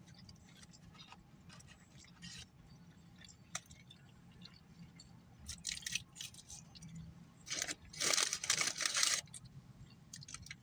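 Quiet eating sounds from a fast-food meal, chewing with small mouth clicks. A louder rustling burst lasts about a second and a half near eight seconds in.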